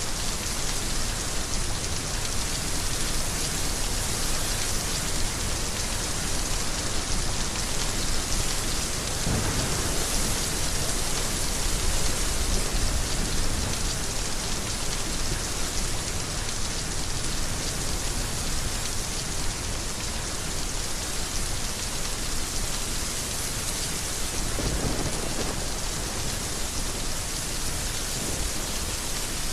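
Heavy rain falling steadily, with two low rumbles of thunder rolling in about a third of the way through and again near the end.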